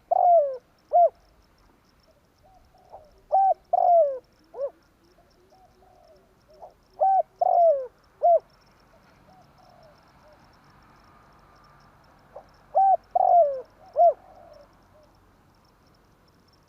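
Spotted dove (tekukur) cooing: four phrases of three or four coos each, a few seconds apart, the longer coos sliding down in pitch.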